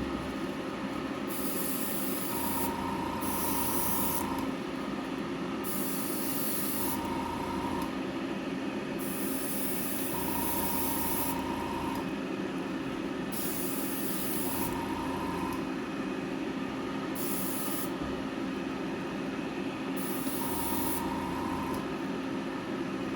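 Airbrush spraying paint in repeated short bursts of hiss, each a second or two long, as the trigger is pressed and released. Under it there is a steady hum, and a faint whine with a low rumble that comes and goes several times.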